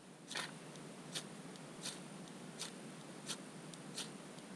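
Ferrocerium fire-steel rod being struck repeatedly to throw sparks for lighting a fire: six short, sharp scrapes in a steady rhythm, about one every three-quarters of a second.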